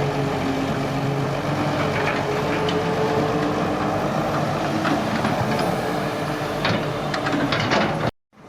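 Hydraulic excavator's diesel engine running steadily, with occasional sharp metal clanks from the working machine. The sound cuts out briefly near the end.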